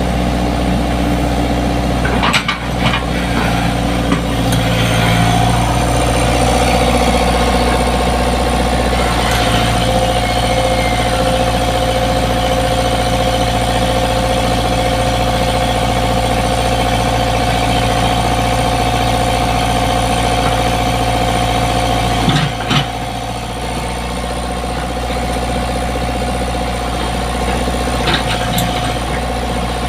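Komatsu PC75 excavator's diesel engine running steadily, with its pitch lifting slightly about five seconds in. A few short, sharp knocks come through over it, one near the start, one past the middle and a couple near the end.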